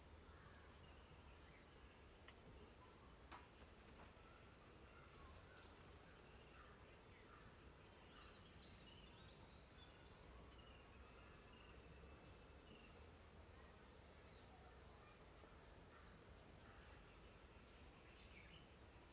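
Faint, steady high-pitched insect chorus of crickets or cicadas, with a few faint chirps scattered over it and a couple of soft clicks a few seconds in.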